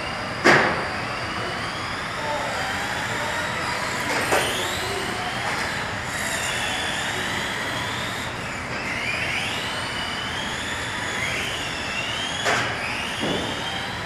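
Several electric RC cars running on a track, their motors whining and gliding up and down in pitch as they speed up and slow down. Three sharp knocks break in, the loudest about half a second in, others around four seconds and near the end.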